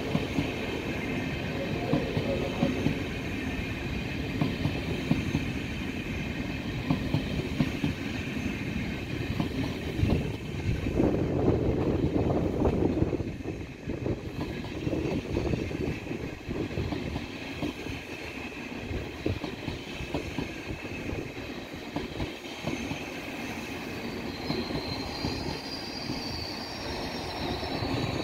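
ICE high-speed train passing at slow speed: its wheels rumble and clack over the rail joints and points, with a faint high squeal. The sound swells in the middle and eases, and a high rising whine comes in near the end as the rear power car nears.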